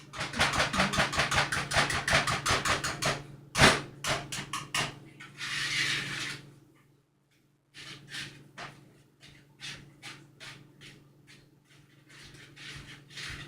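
Wire whisk beating cake batter in a bowl: fast, rhythmic clicking strokes against the bowl, about five a second, with one loud knock in the first run. After a brief pause the whisking resumes more softly.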